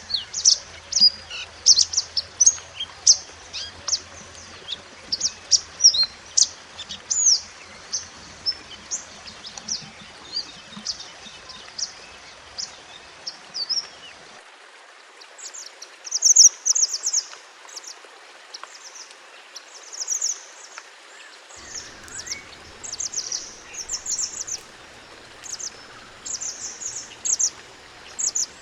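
Mantenan gunung songbird singing a quick series of high, thin chirps and twitters. The song pauses briefly about halfway through, then resumes in denser clusters of notes.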